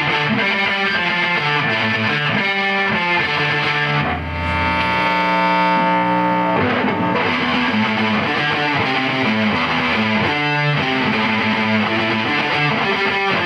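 Electric guitar played through a Julungas Microwaves triple fuzz pedal with a little reverb: fuzzy, distorted chords and notes, with one chord held and left ringing about four seconds in.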